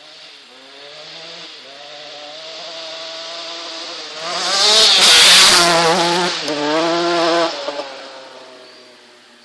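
Motocross bike engine revving hard, with the pitch climbing and dropping back several times as it shifts and changes throttle. It grows loud as it passes close by about five seconds in, then fades away.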